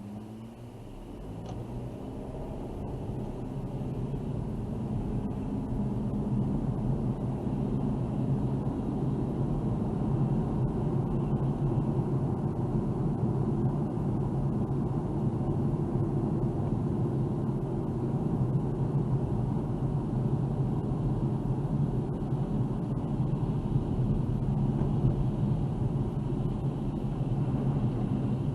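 Car engine and road noise as the car pulls away and speeds up, rising in pitch and loudness over the first few seconds, then running steadily at cruising speed.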